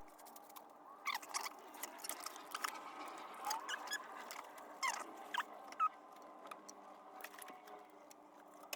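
Faint, scattered light clicks and short squeaks, typical of a fuel-line quick-connect fitting being worked with a plastic disconnect tool.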